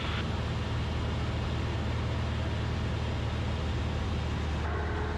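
Cessna 172RG's four-cylinder Lycoming engine and propeller droning steadily in flight, heard as constant cabin noise.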